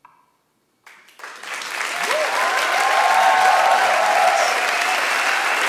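Audience applause breaking out at the end of a live song: it starts about a second in, swells quickly and stays up, with cheering shouts and whoops over it.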